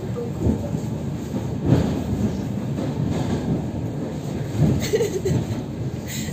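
Suburban electric commuter train running, heard from inside the carriage: a steady low rumble with a few louder knocks, the loudest nearly two seconds in.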